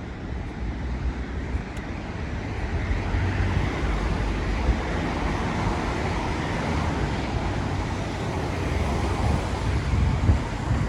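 Road traffic on wet asphalt: tyre hiss that swells about two seconds in and then holds steady, over a low wind rumble on the microphone.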